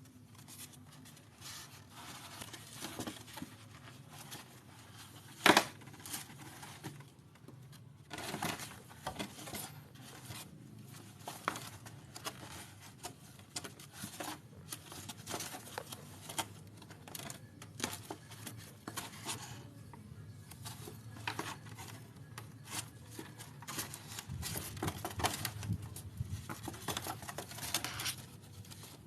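Cats playing with cloth, their clawing and tugging making irregular scratching, rustling and tearing sounds with many small clicks, and one sharp knock about five and a half seconds in.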